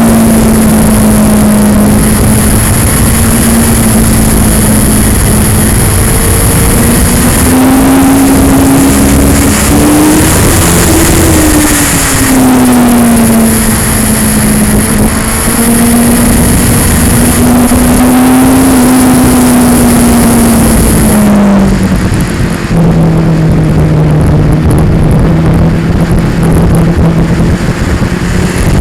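2002 Yamaha R6's inline-four engine running under way, its note rising and falling with the throttle and dropping lower about 23 seconds in. It is heard from a bike-mounted action cam, under heavy wind rush and a rattly distortion from the camera's vibration.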